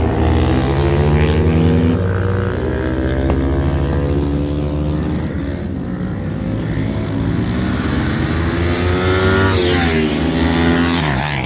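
Superbike engines running at high revs on a track. Near the end one passes close, its pitch dipping sharply and then climbing again.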